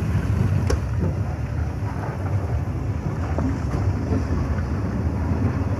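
Steady low rumble of a Rhaetian Railway electric railcar moving with the X9132 snow spreader over the snow-covered track, with wind buffeting the microphone.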